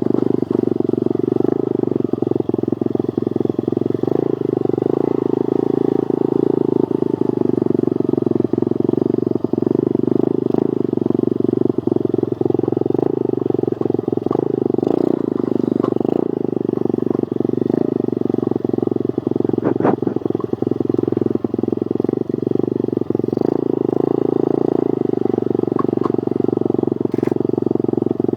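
Pit bike engine running steadily during a ride, heard muffled and even, with a few faint ticks.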